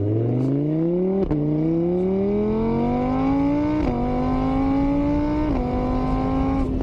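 A vehicle engine accelerating through the gears: its pitch climbs steadily, drops sharply at each of three shifts, then holds steady.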